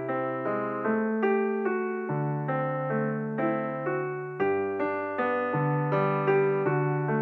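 Background music: a gentle piano tune, notes struck two or three times a second over held bass notes.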